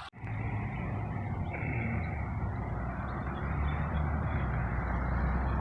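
Steady outdoor background noise, a low rumble with some hiss, beginning abruptly just after a short dropout at the start.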